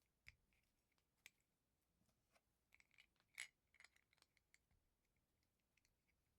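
Quiet, sharp clicks of small plastic LEGO bricks being handled and pressed together: two single clicks, then a quicker cluster of clicks with one louder snap in the middle.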